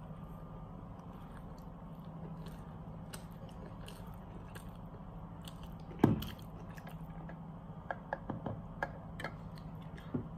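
A person chewing and biting a mouthful of KFC Zinger fried-chicken burger, with small wet mouth clicks, over a steady low hum. A sharp thump comes about six seconds in, and a few smaller knocks and clicks follow near the end.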